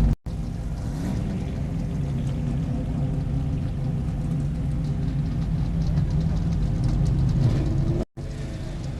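Car engine running at low revs, with a brief rise in pitch about seven seconds in. The sound cuts out for a moment twice, just after the start and near the end.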